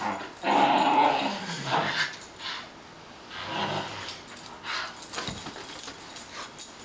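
Terrier-mix dog vocalizing excitedly in play: a loud pitched cry about half a second in, another around three and a half seconds, then a run of short sharp sounds near the end.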